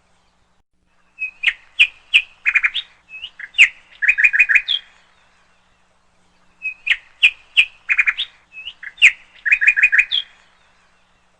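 A songbird singing a rapid phrase of chirps and short whistles about three and a half seconds long. It sings the same phrase twice, with a few seconds' pause between.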